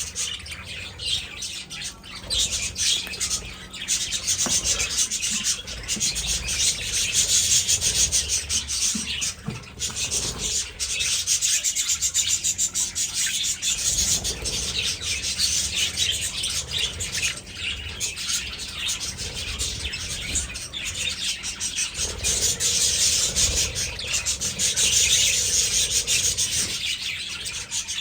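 A flock of budgerigars chattering continuously, a dense high-pitched mass of rapid chirps and warbles.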